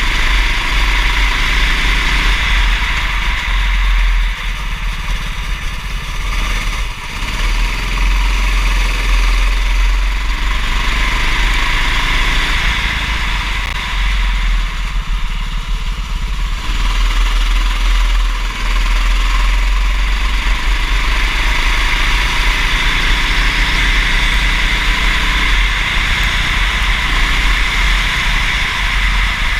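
Kart engine running hard, its pitch rising and falling as it revs up and eases off, with a heavy low rumble underneath.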